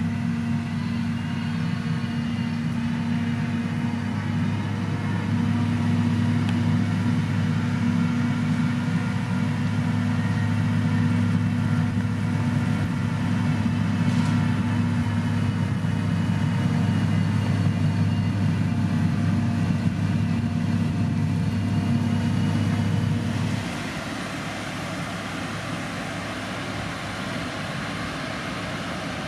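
Diesel engine of heavy road-construction machinery running steadily with a low hum. Near the end the low engine tone cuts off abruptly and the sound becomes quieter.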